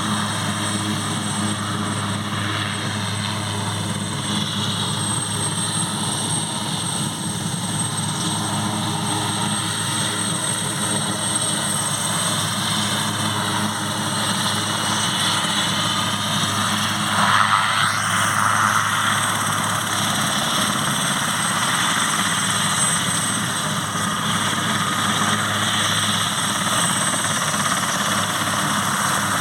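Airbus AS 532AL Cougar helicopter's twin turboshaft engines and rotors running steadily, with a thin high turbine whine over a low steady drone. A louder surge of noise comes about seventeen seconds in.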